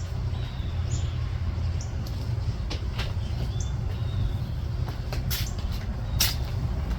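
Short high bird chirps, a few brief down-slurred calls and sharp ticks, scattered over a steady low rumble.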